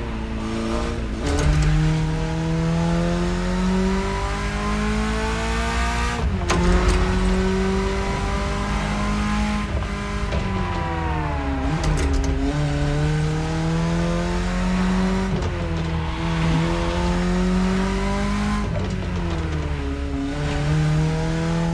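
BMW E30 engine pulling hard through the gears: the pitch climbs under acceleration and drops sharply at each gear change, several times over, with a few short clicks at some of the shifts.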